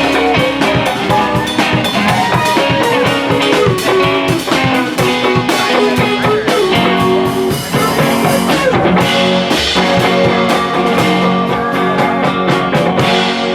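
Live rock band playing an instrumental passage: guitar with notes bending in pitch over a steady drum kit beat.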